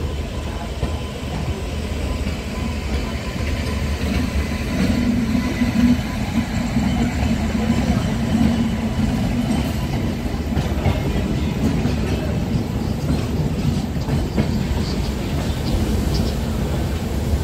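Passenger express train's coaches pulling out of a station, heard from an open coach doorway: a steady rumble of wheels on rails, with clicks over rail joints from about ten seconds in.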